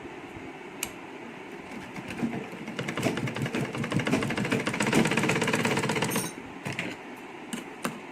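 Sewing machine stitching in one run of about four seconds: it starts about two seconds in, picks up speed and stops suddenly. A few sharp clicks come before and after it.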